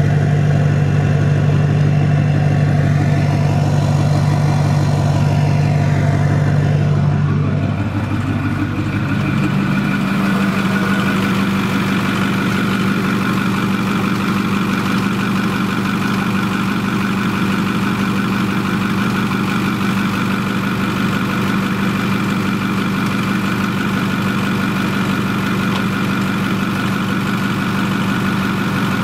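Ford 6.4L Power Stroke V8 turbo-diesel idling steadily, its tone shifting about eight to ten seconds in and then holding even. The owner reports a gurgling in the exhaust, smoke from the oil filler neck and a knock near the right wheel arch on this engine.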